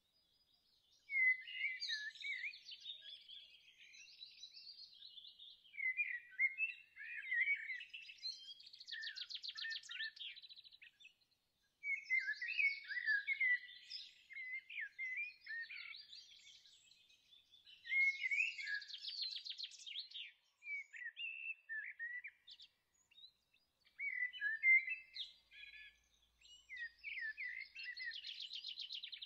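Songbirds singing: phrases of clear chirps and quick rattling trills, a new phrase starting every five or six seconds.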